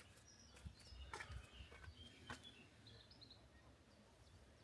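Near silence: faint outdoor ambience with a few brief, distant bird chirps and some soft bumps.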